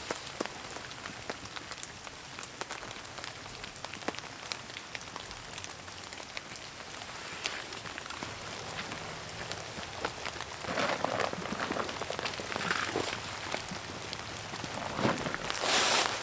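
Heavy rain falling steadily, with many individual drops pattering. From about ten seconds in, louder irregular noises join it.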